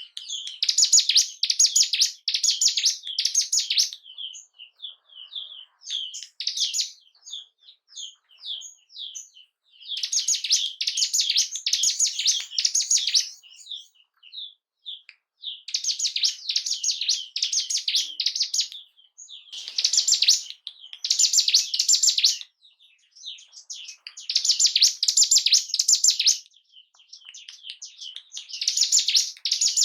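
Ciblek gunung (a prinia) singing: high, rapid chirping phrases of two to three seconds, repeated about every five seconds, with scattered single chirps in the gaps.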